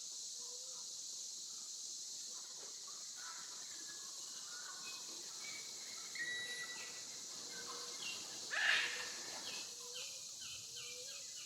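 Outdoor nature ambience: a steady high hiss with scattered short bird chirps, and one louder bird call about eight and a half seconds in.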